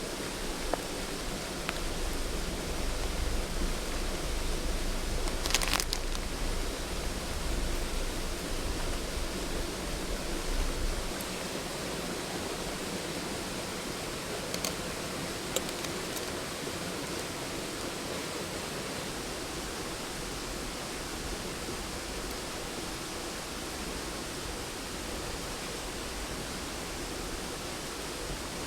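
Mountain stream's water running steadily over rocks. A low rumble sits under it for roughly the first ten seconds, and a few sharp clicks come through it.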